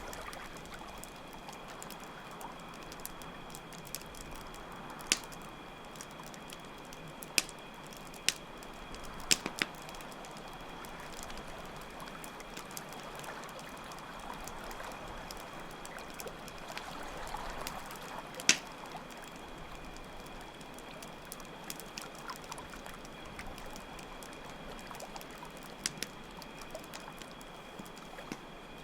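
Campfire crackling, with scattered sharp pops every few seconds, over steadily running water and crickets chirping in a continuous high drone.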